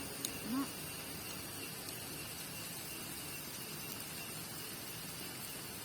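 Steady, even hiss, with a faint click and a brief rising vocal sound about half a second in.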